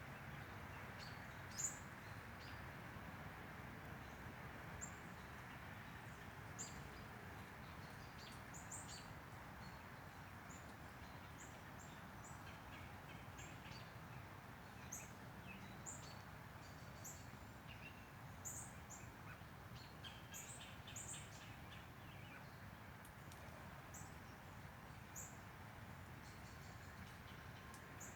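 Faint outdoor ambience: a steady low hiss with scattered brief, high bird chirps throughout, and a short rapid ticking call about two-thirds of the way in.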